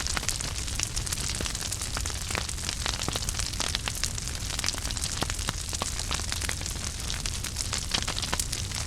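Wood fire burning in a fireplace: dense, irregular crackles and small pops over a steady low rumble of the flames.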